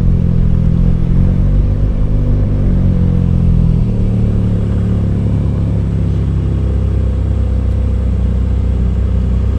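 Ferrari 458 Speciale's 4.5-litre naturally aspirated V8 running at low revs, its pitch wavering for the first few seconds and then settling to a steady idle.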